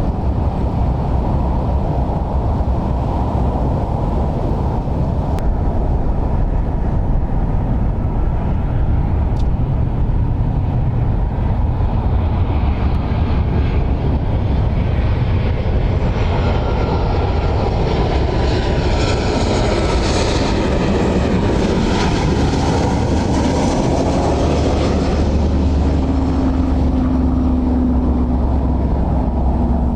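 Jet airliner passing by: a steady low rumble, with the engines' higher whine building from about twelve seconds in, loudest around twenty seconds, then fading away. A steady low hum comes in near the end.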